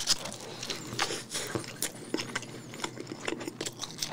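A person biting into and chewing a soft beef-patty burger close to the microphone: many small, irregular wet mouth clicks and smacks.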